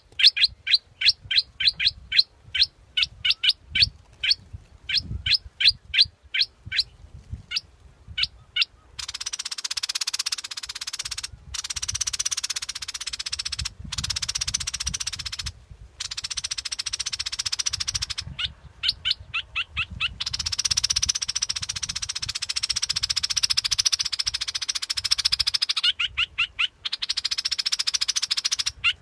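Bulbul calls from a bird-trapping decoy recording. A fast run of sharp, repeated chirps, about three or four a second, gives way about nine seconds in to a dense, buzzy chatter, broken now and then by short runs of the chirps.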